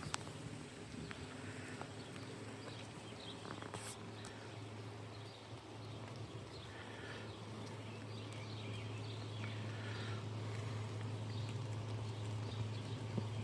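Birds chirping faintly and intermittently outdoors over a steady low hum, with a few scattered small clicks.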